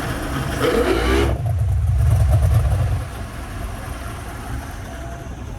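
Newly built drag-boat engine running under way on the water during its break-in, a deep steady drone that swells louder about a second and a half in and eases back about three seconds in.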